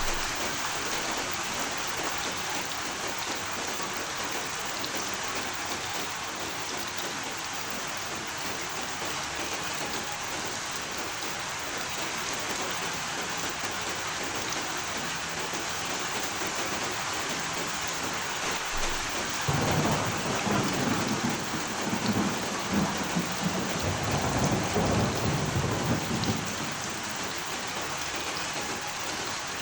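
Steady rain falling. About two-thirds of the way through, a low rumble of thunder rolls in suddenly and dies away after about six seconds.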